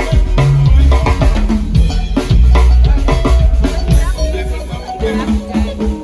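Rumba band playing live: a drum kit with kick and snare keeps the beat under bass notes and melodic guitar lines.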